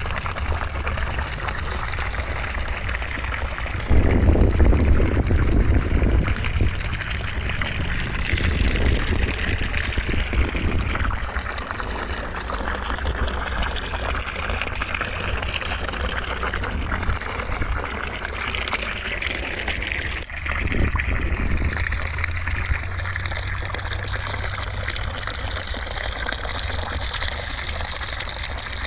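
Steady white noise: a continuous rushing hiss like gushing water, a little heavier in the low end for a couple of seconds about four seconds in, with a brief dip about twenty seconds in.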